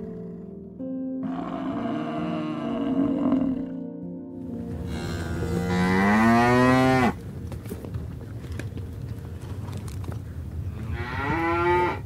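Cattle mooing twice over soft background music: a long moo a few seconds in that rises in pitch and stops abruptly, and a shorter rising moo near the end.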